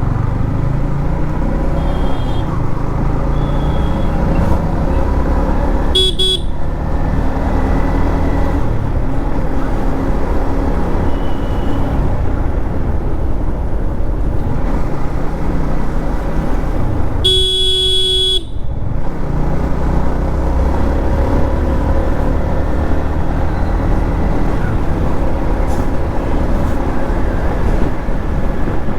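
Modified Yamaha MT-15's single-cylinder engine running steadily at highway riding speed, with a continuous low rumble. A vehicle horn sounds twice: a short toot about six seconds in and a longer honk of about a second just past the middle.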